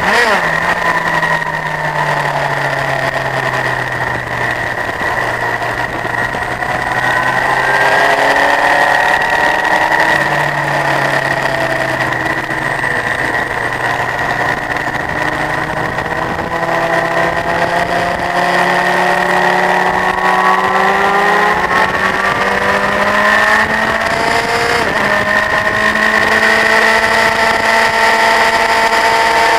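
Honda CBF1000's inline-four engine running at speed on a race track, its pitch climbing as it accelerates and falling away at gear changes and braking, several times over. One sharp drop comes about two thirds of the way through.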